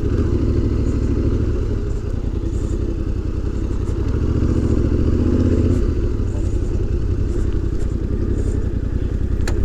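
Yamaha Ténéré 700 motorcycle's parallel-twin engine running steadily under way, swelling slightly in the middle.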